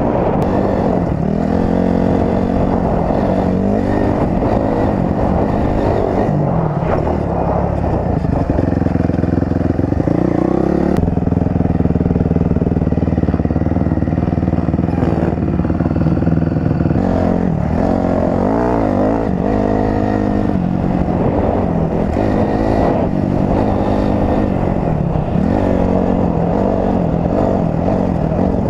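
Dirt bike engine being ridden, revving up and down again and again as the rider works the throttle and gears, with a steadier stretch of even running about halfway through.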